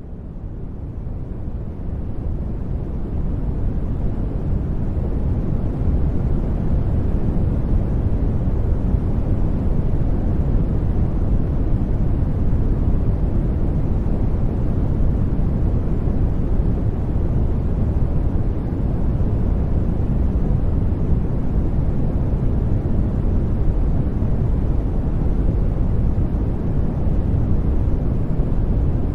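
Steady sleep-noise track, an even rushing hiss weighted toward the deep low end, fading up over the first few seconds and then holding level.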